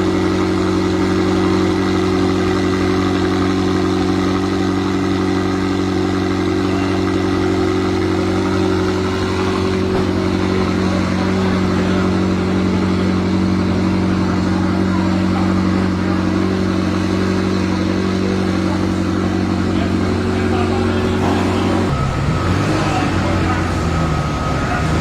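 McLaren 765LT Spider's twin-turbo V8 running at a steady, unchanging note for about twenty seconds; near the end the note breaks up and its pitch starts wavering up and down.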